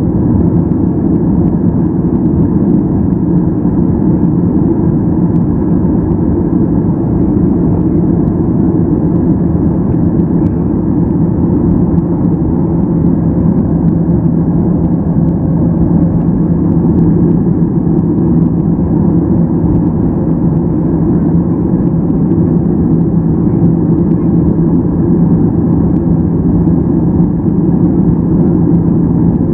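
Steady engine and airflow noise of a Boeing 737-800's CFM56-7B engines heard inside the cabin, a constant low rumble with a steady hum.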